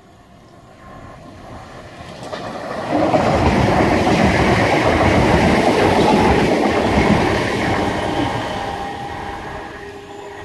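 Electric multiple-unit passenger train passing close by: wheels rumbling and clattering on the rails. The sound builds over the first three seconds, stays loud for about five, then fades as the train moves away.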